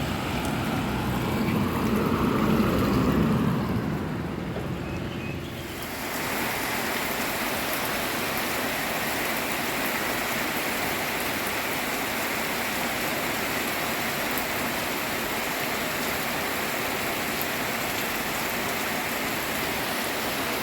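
A motor vehicle passes, its sound swelling and fading over the first few seconds. Then, after a sudden change, steady rain falls without letting up.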